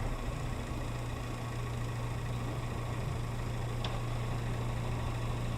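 Car engine running with a steady low hum, heard from inside the cabin, with a faint tick about four seconds in.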